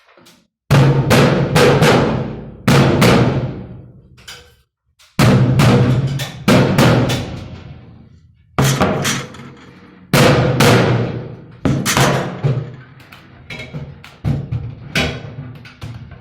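Hammer blows on sheet metal of an air-conditioning plenum box: about a dozen irregular strikes, often in pairs, each ringing out with a metallic hum.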